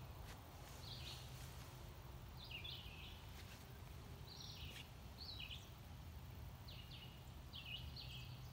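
Faint birdsong: short, quick chirps repeated about every second, over a steady low background hum.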